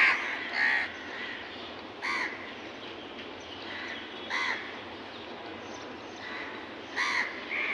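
Birds at a feeding spot calling, short single calls about every two seconds over a steady background hiss.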